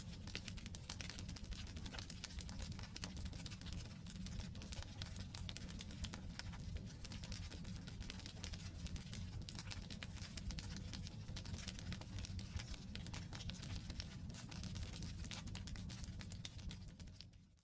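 Wood campfire burning: a steady low rumble of flames under dense, irregular crackling of the burning logs. It fades out quickly to silence at the very end.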